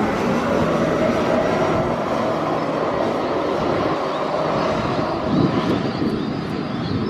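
Jet airliner passing close by, its engines making a loud, steady rushing noise that slowly eases off.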